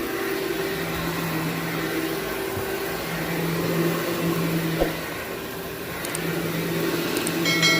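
Vacuum cleaner motor running steadily on carpet, its hum shifting slightly in pitch every second or two as the load on it changes.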